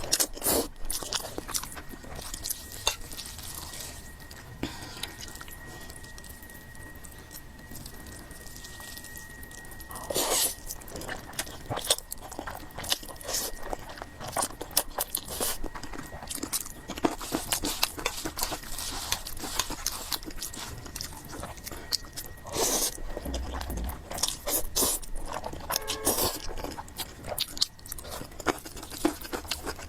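A person chewing and biting fried noodles with pork close to the microphone: irregular wet mouth clicks and crunches, with louder bites at the start, about ten seconds in and about two-thirds through.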